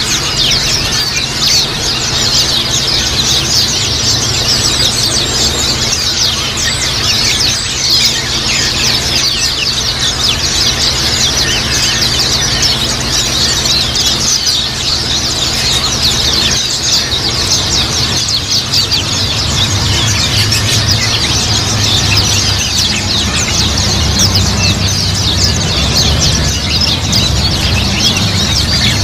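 A flock of white-eyes (pleci) chirping and twittering together, many short high calls overlapping without a break, over a low steady hum that grows a little louder in the second half.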